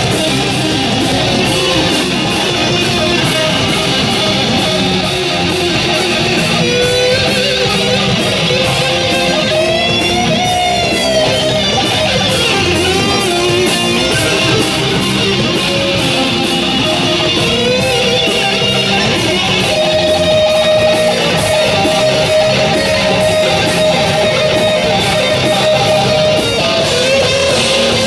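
Live heavy rock band playing an instrumental passage: distorted electric guitars over bass and drums, with a lead guitar bending notes and holding one long note in the second half.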